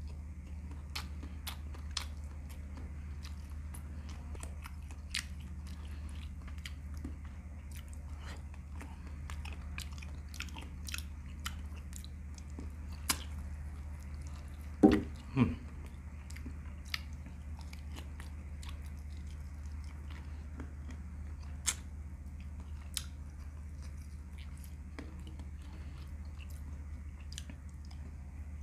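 Close-miked chewing and lip-smacking of a man eating saucy meat and rice with his fingers, with small wet clicks every second or so. About halfway through come two louder smacks as he sucks sauce off his fingers.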